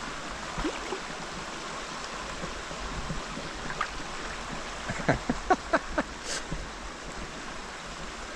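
Shallow river water rushing steadily over rocks, with a quick run of about five sloshing splashes about five seconds in as legs wade through the water.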